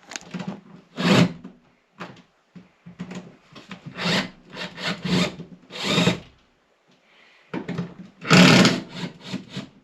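Cordless drill-driver backing screws out of a wall panel in a series of short runs, each about half a second long.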